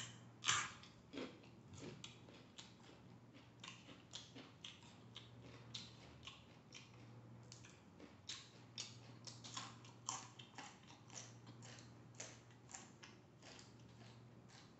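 Chewing of crisp raw vegetables close to the microphone: faint, irregular crunching clicks, a few a second, over a faint steady hum.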